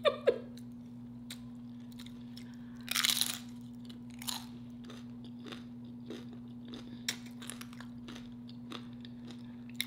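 Close-up crunching and chewing of tortilla-chip nachos topped with chili and cheese. A bigger crunch comes about three seconds in, with scattered smaller crunches after it, over a steady low hum.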